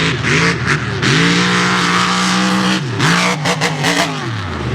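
Mega mud truck's engine running hard at high revs, its pitch dropping and climbing again several times, with a loud rushing noise over it. The revs fall away near the end.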